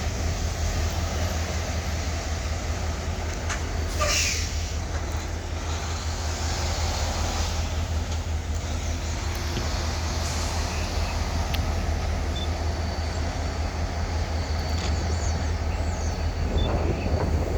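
EMD diesel-electric road-switcher locomotives running with a steady low rumble. A brief hiss cuts in about four seconds in.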